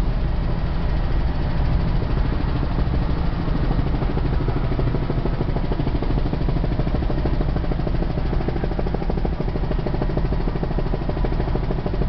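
Helicopter heard from inside the cabin in flight: a steady drone of engine and rotor with a fast, even blade chop.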